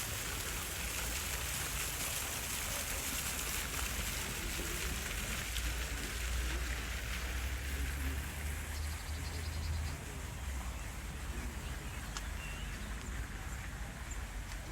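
Steady rushing hiss of running water, with a low rumble that swells in the middle and eases off after about ten seconds.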